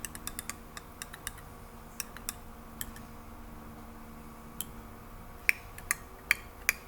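A utensil stirring in a glass jar of water, oil and food dye, making light, irregular clicks against the glass, with a few sharper ringing clinks near the end.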